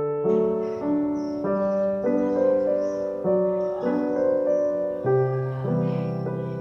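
Background piano music, chords changing every half second to a second.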